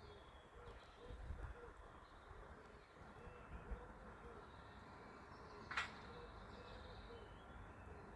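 Faint bird calls: a run of short, low notes repeating evenly throughout, with a single sharp click about six seconds in.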